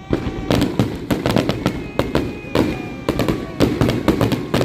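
Consumer fireworks and firecrackers going off in a rapid, irregular string of sharp cracks and bangs, several a second.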